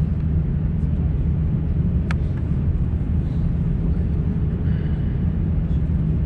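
Steady low rumble inside the cabin of a Lufthansa Airbus A350-900, with a single short click about two seconds in.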